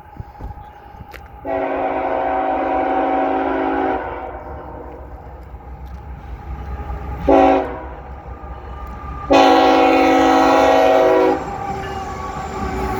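CSX freight locomotive's air horn sounding three times: a long blast, a short one, then another long blast, a steady chord each time. A low rumble of the approaching train grows louder near the end.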